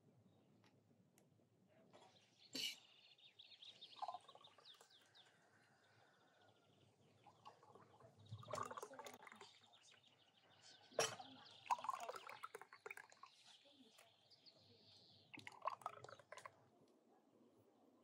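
Faint bird calls, with clucking and chirping coming and going, broken by two sharp clicks, one about two and a half seconds in and one about eleven seconds in.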